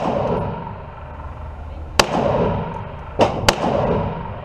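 Gunshots: three sharp shots, one about two seconds in and two more close together about a second later, each leaving a ringing echo.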